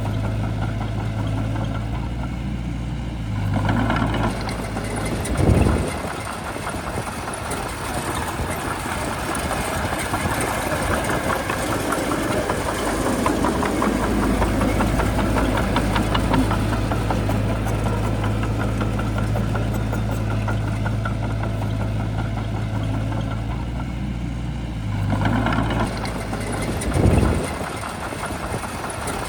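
Shantui bulldozer's diesel engine running steadily, with two brief louder surges, one a few seconds in and one near the end.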